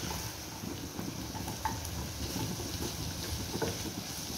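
Carrot strips, almonds and raisins sizzling gently in butter and oil in a pan while being stirred with a wooden spatula, with a few faint taps of the spatula against the pan.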